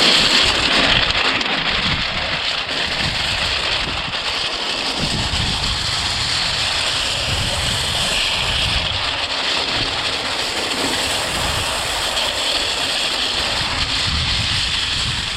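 Wind rushing over the camera microphone on a moving e-bike, steady and loud, with a low, uneven rumble underneath.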